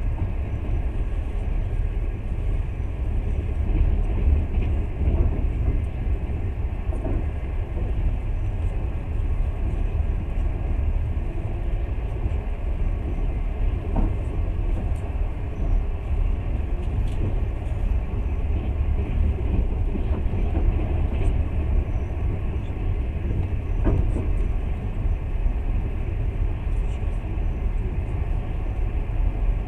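Passenger train running at speed, heard from inside the carriage: a steady low rumble of wheels on rails, with a couple of faint clicks.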